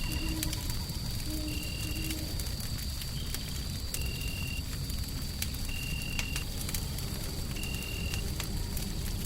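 Wood fire crackling with sharp pops over a steady low rushing noise. A short high tone recurs about every couple of seconds, with a faint steady high whine.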